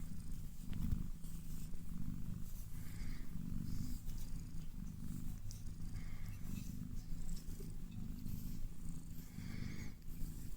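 Domestic cat purring steadily and continuously, a low pulsing rumble, while being brushed.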